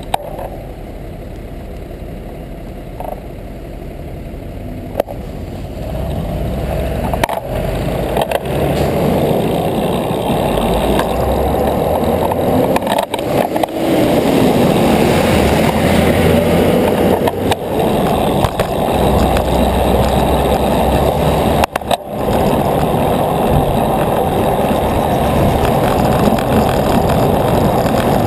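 Road noise of a moving bicycle: tyre rumble on pavement mixed with wind buffeting the microphone, growing louder about six seconds in, with a few sharp clicks or knocks along the way.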